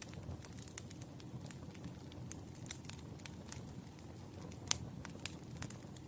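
A wood fire crackling, with irregular sharp pops and snaps over a low steady rumble of the burning logs. The loudest pop comes about three-quarters of the way through.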